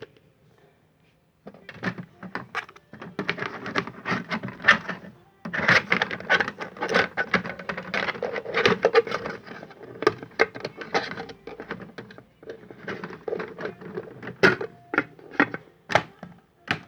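Hotpoint toy washing machine spinning with a flower-pot saucer fitted as its drum plate, giving a fast plastic clattering and rattling that comes in several bursts with brief pauses between them.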